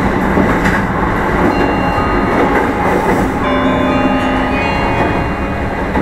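Meitetsu 1000 series electric train heard from inside motor car Mo 1066 while running: steady wheel-on-rail rumble with rail-joint clatter. A few brief ringing tones at different pitches sound over it about three and a half seconds in.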